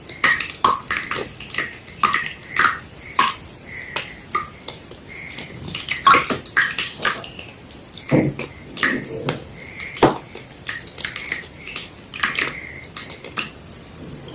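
White gym chalk wet with water being crushed, giving irregular crunches and crackles a few times a second with wet squishing between them.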